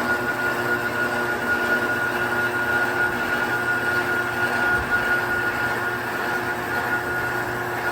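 Steady industrial machinery running: a continuous drone with a steady whine held on one pitch.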